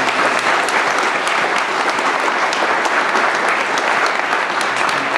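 Congregation applauding steadily in a church, a dense patter of many hands clapping.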